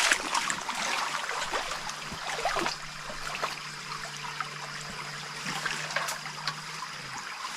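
Small stream running and trickling over rocks, with a few small splashes.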